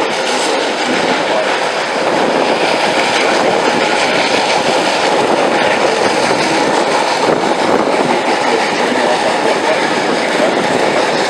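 Steam excursion train running, heard from aboard with wind buffeting the microphone: a loud, steady rushing noise.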